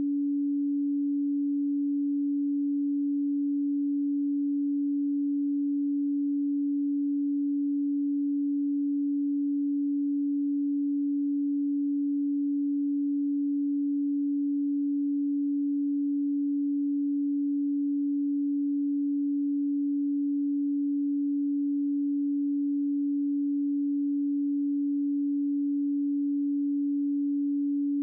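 A pure 285 Hz sine tone, one unchanging electronic hum held steady at a constant level.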